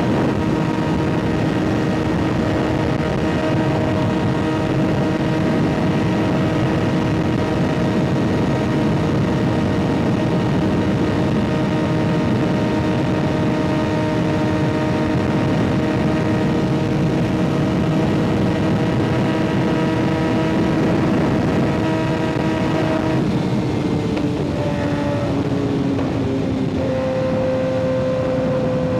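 Kawasaki ZX-6R 636's inline-four through an M4 aftermarket exhaust, heard from the rider's seat, running at steady revs over wind and road noise. About 23 seconds in the revs fall and the engine note settles at a new, lower pitch.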